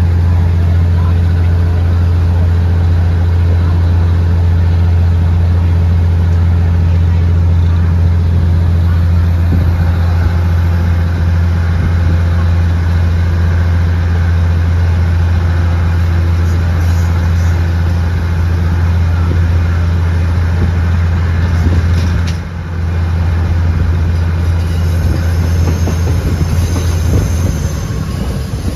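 Passenger train under way, with the steady low drone of its diesel locomotive engine over the running noise of the carriages; the drone drops out for a moment about three-quarters of the way through.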